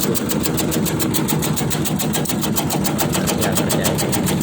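Motorised tobacco-shredding machine running steadily, its chopping action giving a fast, even beat over the engine noise.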